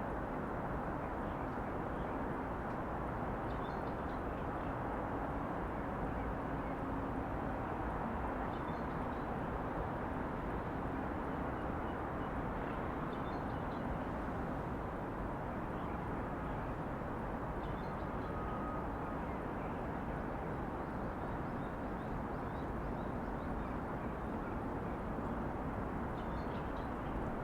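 Steady city ambience: a constant low hum of distant traffic, with faint brief high sounds every few seconds.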